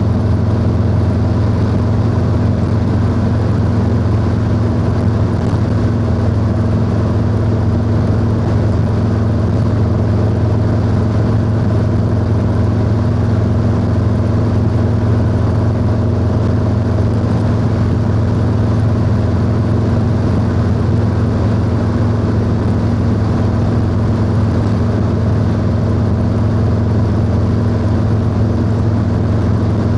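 Harley-Davidson Low Rider S V-twin motorcycle with a 2-into-1 exhaust, cruising at a steady speed with an even engine note.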